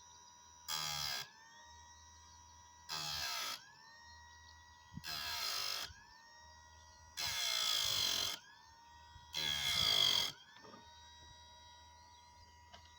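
A small electric motor whirring in five short bursts of about a second each, with a faint steady whine between them.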